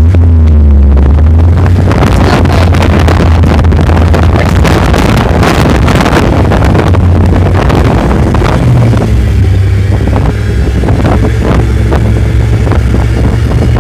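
Off-road vehicle engine running, its low drone stepping up in pitch about eight and a half seconds in, under heavy wind buffeting and many rattling knocks. Very poor, distorted sound quality.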